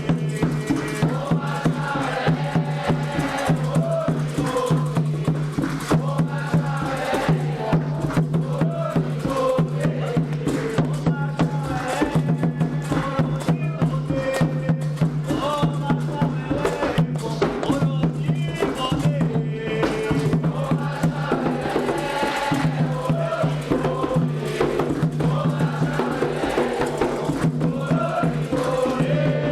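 Voices singing a Candomblé chant for the orixás in Yoruba, over continuous hand percussion with wood-block and rattle-like strokes.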